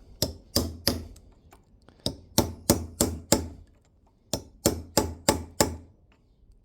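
Hammer blows on a steel tool, working an old kingpin bush out of its housing in a tractor axle. The blows are sharp and metallic and come in three runs of four or five, about three a second, with short pauses between.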